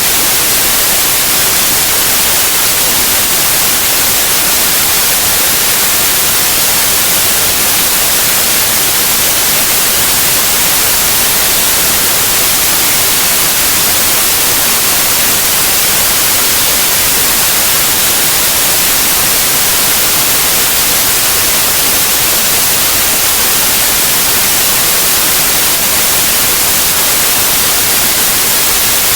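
Continuous white noise: a loud, even hiss, steady throughout, strongest in the high range.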